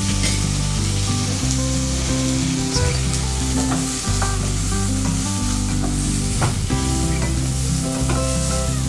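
Chopped onion and tomato sizzling as they fry in a non-stick kadhai, stirred with a spatula that scrapes and knocks against the pan a few times. Background music plays underneath.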